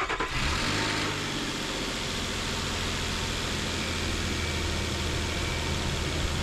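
Car engine just started, settling within the first second into a steady idle.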